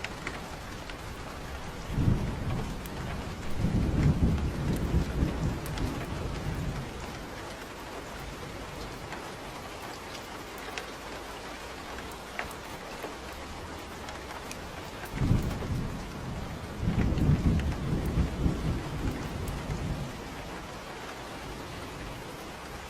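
Steady rain falling, with two deep rolls of thunder, one starting about two seconds in and one about fifteen seconds in, each rumbling for around five seconds.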